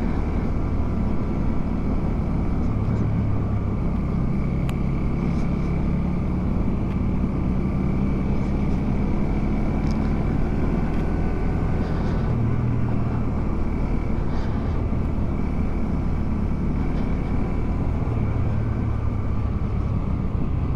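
Motorcycle engine running at a steady cruise while riding, heard from on the bike, its pitch shifting a little with speed.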